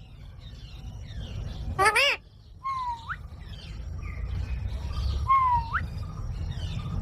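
Green parrot calling: one loud harsh screech about two seconds in, and twice a whistle that dips and then sweeps sharply up, over a steady low rumble.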